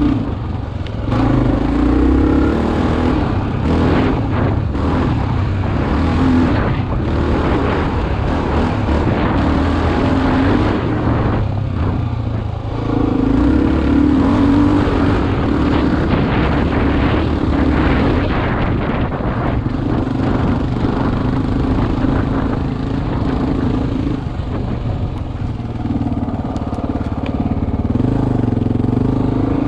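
Single-cylinder four-stroke dual-sport motorcycle engine running under way off road, heard from the rider's helmet, its pitch rising and falling with the throttle. It eases off briefly about twelve seconds in.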